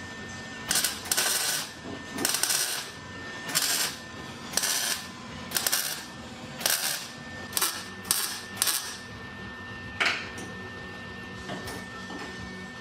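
Welder laying a row of short tack welds on a sheet-metal floor-pan patch: about ten brief bursts, roughly one a second, with a single sharper metal hit about ten seconds in.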